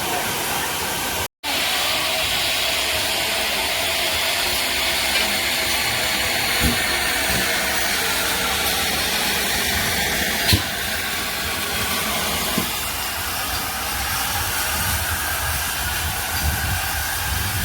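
Steam locomotive 5239 Goliath, a GWR 2-8-0 tank engine, hissing steam steadily while at the station, with a few faint clicks; the sound cuts out briefly about a second in.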